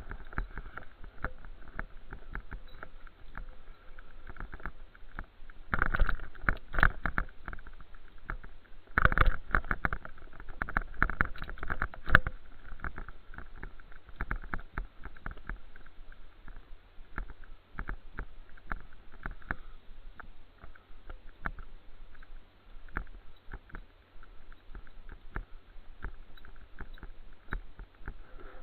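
Handling and riding noise from a camera carried on a moving bicycle: a continuous rumble with many small rattling knocks, and louder bursts of buffeting about six seconds in and again from about nine to twelve seconds.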